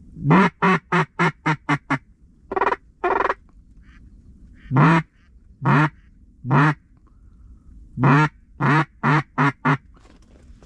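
Loud mallard hen quacking in groups: a fast run of about seven quacks that tumble down in pace, two single quacks, three longer drawn-out quacks, then another quick run of about six.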